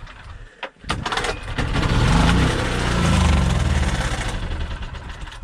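Small generator engine firing on starter fluid: it catches about a second in, revs up briefly, then slows and dies away near the end. It runs only on the fluid, as the old engine is not drawing its own fuel through.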